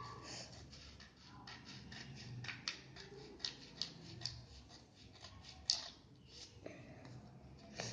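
Scissors snipping through a sheet of paper: a run of short, sharp snips, a few louder ones standing out, the loudest about three quarters of the way through.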